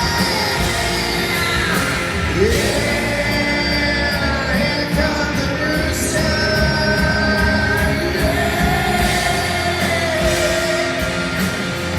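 Heavy rock music with a singing voice.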